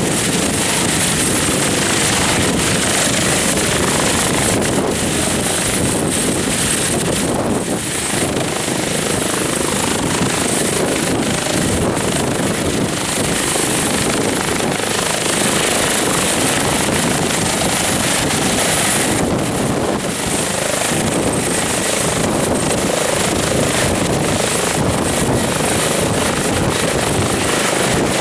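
Airbus Helicopters H145 twin-engine helicopter running: loud, steady turbine and rotor noise with a steady high whine above it.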